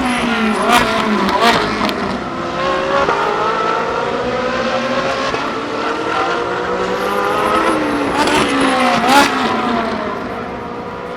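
Several Ferrari 458 Challenge EVO race cars with naturally aspirated V8 engines at full throttle, their pitch climbing through the gears with sharp cracks at the upshifts. About eight seconds in, one car passes close with its pitch falling, and the sound fades near the end.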